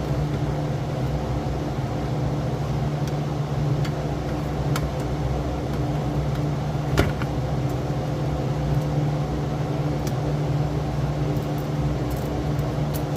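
Steady machine hum, like a fan or other appliance running in a garage, with scattered faint clicks of hand tools and one sharper click about seven seconds in.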